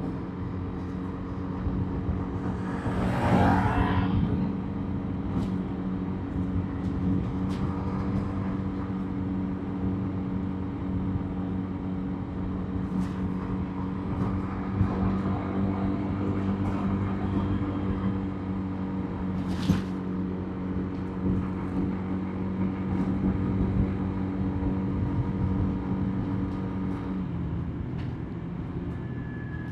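Motorbike engine running at a steady cruise under road and wind noise, with a louder rushing swell about three seconds in and a few sharp clicks. The engine note drops away near the end as the throttle eases off.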